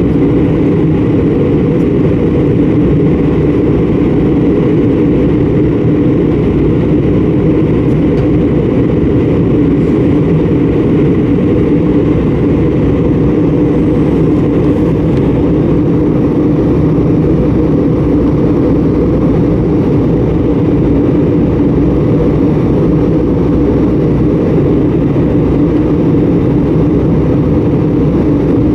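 Airbus A320 cabin noise in flight: a loud, steady drone of the jet engines and airflow, with a constant low hum and no change in pitch or level.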